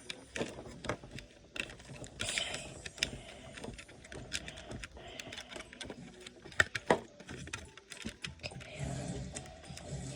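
Irregular plastic clicks and rustling as an action figure and its plastic packaging are handled, with two sharper clicks about two-thirds of the way through.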